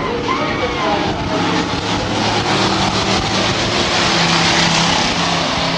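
Stock race trucks' engines running hard on a dirt oval. The roar swells to its loudest about four to five seconds in as they come past, then begins to fade.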